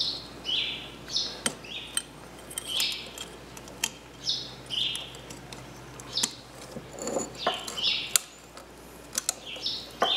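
A small bird chirping over and over, short high calls alternating between a higher and a lower note about once or twice a second. Mixed in are sharp clicks and taps of metal fork parts being handled.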